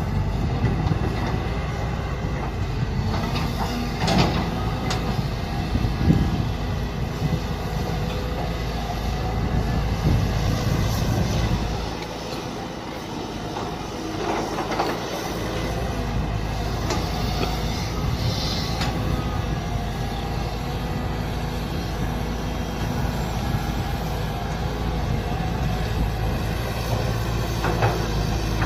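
Mini excavator's engine running steadily under digging work, with a few short knocks and scrapes. Its low drone eases for a few seconds about twelve seconds in, then picks back up.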